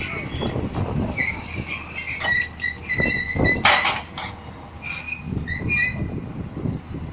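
Heavy machinery straining: high-pitched metallic squeals and creaks over a low engine rumble, with a sharp metallic clank about three and a half seconds in.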